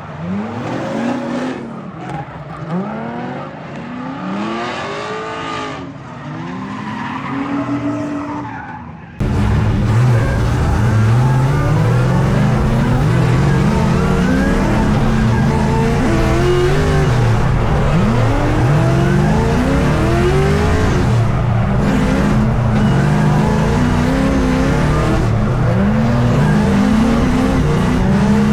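LS V8 in a BMW E82 drift car, revving up and down repeatedly while drifting, with tyre squeal. About nine seconds in it becomes suddenly louder and fuller, as if heard much closer.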